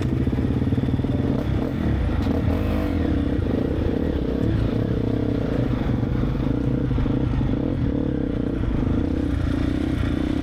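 Triumph TF 250-X four-stroke single-cylinder motocross bike engine running under way, the revs rising and falling repeatedly as it is ridden.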